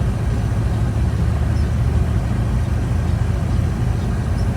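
A steady low rumble with a constant hum underneath it, unbroken throughout.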